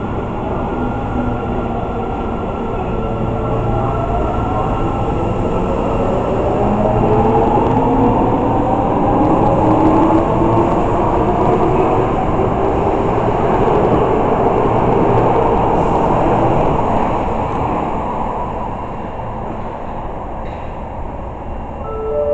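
Osaka Metro Tanimachi Line 22 series subway train pulling away from the station, its traction motor drive whining in several tones that rise steadily in pitch as it gathers speed, over the rumble of the cars, then fading near the end.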